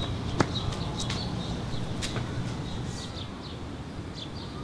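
Small birds chirping in short, high, falling calls over a steady low rumble of city background, with a few sharp clicks in the first two seconds.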